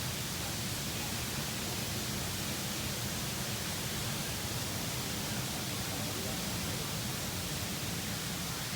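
Steady, even rush of a waterfall and its flowing stream, with no breaks or separate events.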